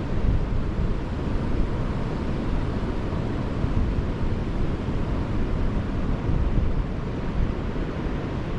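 Wind buffeting the microphone over the steady wash of surf on the beach, a continuous rumbling noise with no distinct events.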